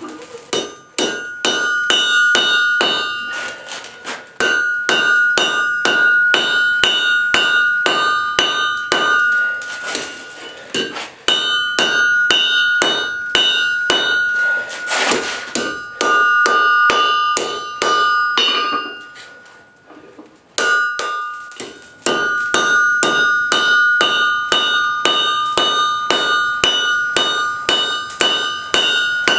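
Blacksmith's hammer striking hot steel on an anvil in fast repeated blows, about three a second, with the anvil ringing on between blows. The hammering pauses briefly a few times, and there is a short rush of noise about halfway through.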